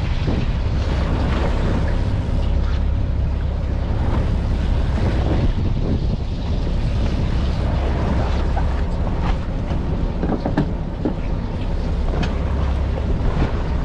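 Steady low rumble of a fishing boat's engine under way, with wind buffeting the microphone and scattered short knocks and splashes.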